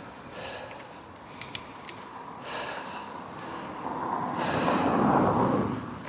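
A cyclist breathing hard while riding, with three heavy exhales about two seconds apart; the last is the loudest. A few sharp clicks come from the bike about one and a half seconds in.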